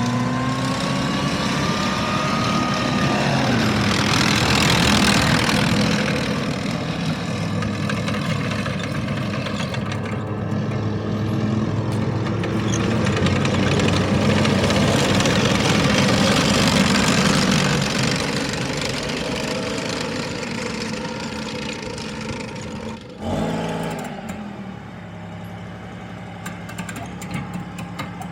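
M113 tracked armoured vehicle with a freshly swapped engine running under way, its pitch rising and falling as the engine revs. It drops abruptly near the end to a steadier, quieter running note.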